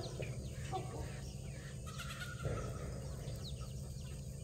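Birds chirping in short, high, downward-sliding chirps over a steady low rumble, with a soft knock about halfway.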